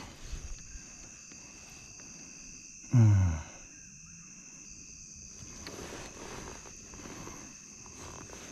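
Steady high-pitched chirring of crickets or other insects. About three seconds in, a man's short low grunt that falls in pitch is the loudest sound.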